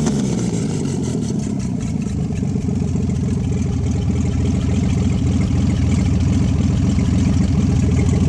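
Rebuilt Chevrolet straight-six running at a steady idle on test after a short blip of the throttle.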